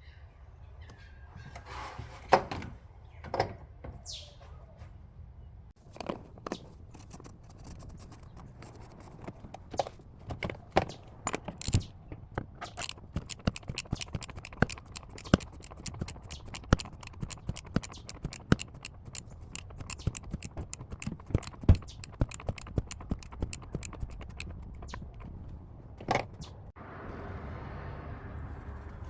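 Metal hand tools and parts being handled: a long run of sharp, irregular clicks and taps, a few louder knocks about two to three seconds in, over a steady low hum; a steady hiss starts near the end.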